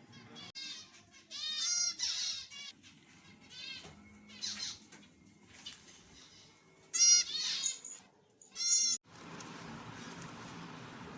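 Zebra finches calling: several bursts of short, high, rapidly repeated calls with pauses between.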